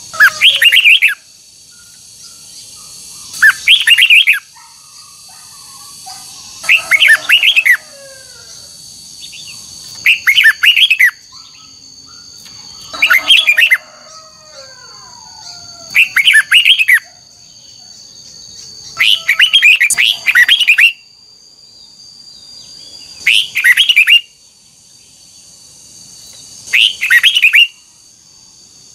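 Red-whiskered bulbul singing loud, short whistled phrases, about one a second long and repeated every three seconds or so, nine times. A faint steady high tone runs underneath.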